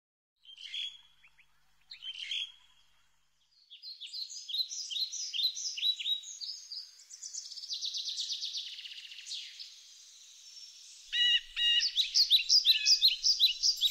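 Birds chirping: a couple of short calls about half a second and two seconds in, then a busy run of repeated high chirps and fast trills that grows louder near the end, with nothing low underneath.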